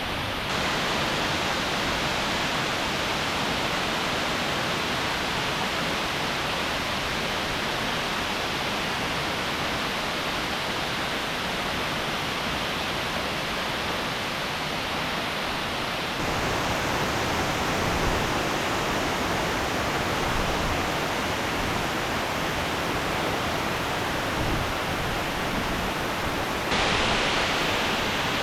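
Waterfall: a steady rush of falling water. Its loudness and tone jump abruptly about half a second in, around sixteen seconds in and near the end.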